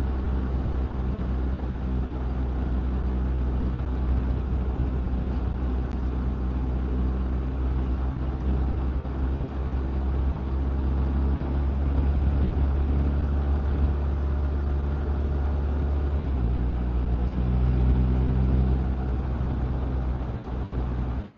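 Motorcycle engine and wind noise while cruising steadily on the highway. The engine note shifts once, about two thirds of the way through.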